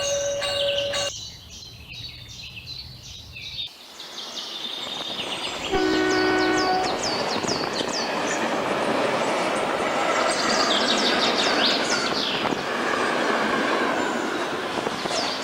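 Dubbed railway sound effect: a train horn sounds once, briefly, about six seconds in, then a train runs past with a steady rumbling rush of wheels on track that lasts to the end. High, repeated chirping runs above it.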